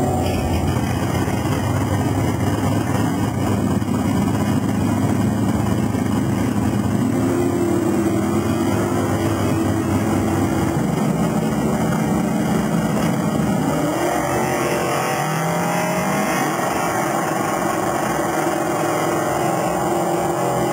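Drag-race car engines running loudly and revving, the pitch climbing in steps about a third of the way in and again past the middle.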